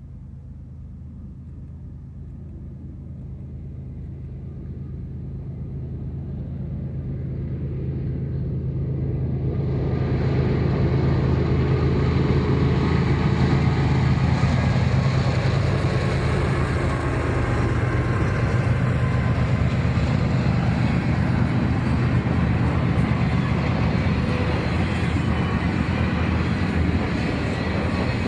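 Train approaching and passing: a steady low engine drone grows louder over about ten seconds, then the steady rolling noise of the train going by takes over and holds.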